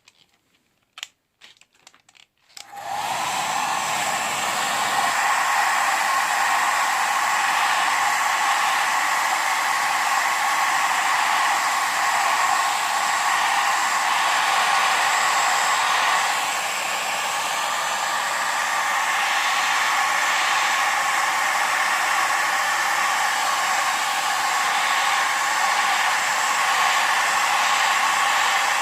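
A few clicks, then a hair dryer switches on about three seconds in and blows steadily, melting ice off a frozen dehumidifier coil.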